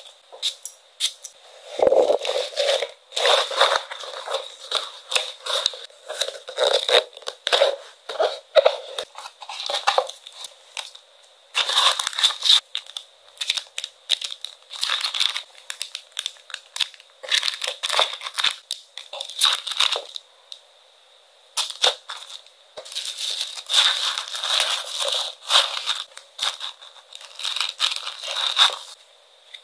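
Stationery orders being packed by hand: plastic and paper packaging crinkling and rustling in irregular bursts, with small sharp clicks between them.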